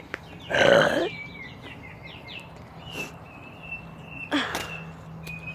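Small birds chirping with short falling calls and a held high note. There is a loud rushing burst about half a second in and a shorter one about four seconds in.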